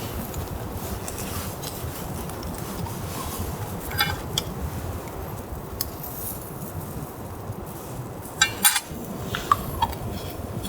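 Camp cookware being handled: a few short metallic clinks about four seconds in, then a quick cluster of sharper clinks near the end, over a steady low background noise.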